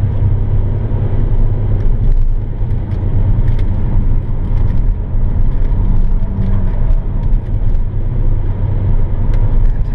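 Car engine and road noise heard from inside the cabin at speed, a steady low drone that holds its pitch through the stretch.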